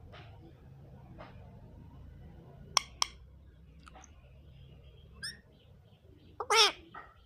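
Indian ringneck parrot calling: two short, sharp chirps about three seconds in, a brief call a little after five seconds, and a louder, longer squawk falling in pitch near the end.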